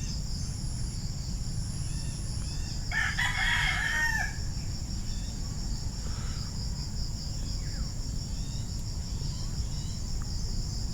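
A rooster crows once, a call of about a second starting about three seconds in, over steady high-pitched insect chirring and a low steady rumble.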